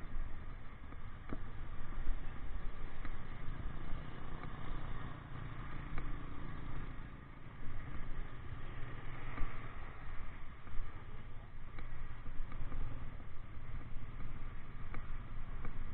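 Motorcycle running on the move, recorded from the bike itself, with a steady, uneven low rumble.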